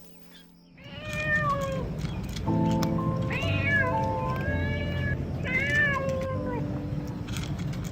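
An animal calling three times in drawn-out cries that rise and then fall in pitch, over background music with held notes.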